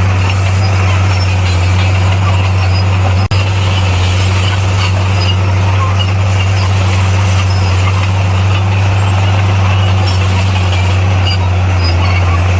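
Heavy earthmoving machine's diesel engine running steadily in a constant low drone, with a brief break about three seconds in.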